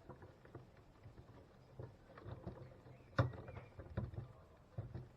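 Plastic clicks, knocks and rubbing as a vacuum cleaner floor head is handled and its brush roll taken out. The loudest is a sharp click about three seconds in.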